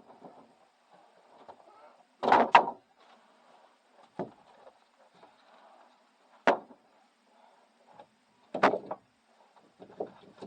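Split firewood pieces knocking wood on wood as they are picked up and tossed onto a pile: about five sharp knocks a couple of seconds apart, the loudest a double knock about two seconds in.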